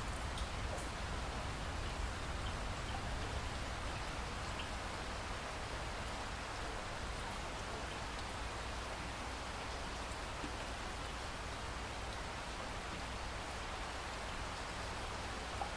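Steady rain falling, a continuous even hiss with faint scattered drop ticks and a low rumble underneath.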